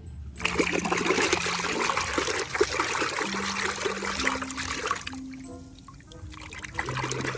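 Water running and splashing as a muddy toy is rinsed, stopping about five seconds in, over background music.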